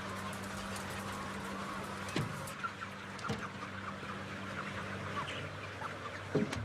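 A flock of broiler chickens chirping and making a few short calls over a steady low mechanical hum.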